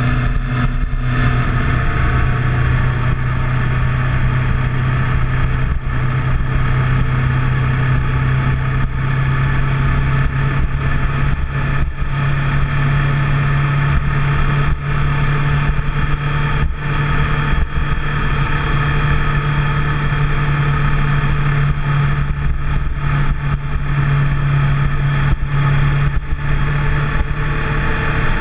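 Motorcycle engine running at a steady speed while riding, with a constant drone and wind and road noise.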